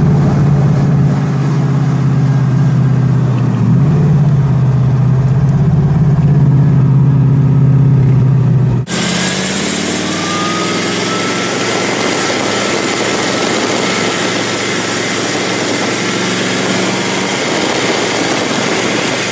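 CN Cobra's supercharged V8 running steadily at low revs while cruising. About nine seconds in the sound changes abruptly to a microphone outside on the car's flank, where the engine is mixed with strong wind rush and road noise.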